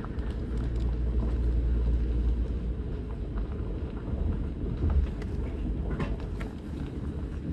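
Vehicle driving: a steady low rumble of engine and road noise, with a few light knocks and rattles about six seconds in.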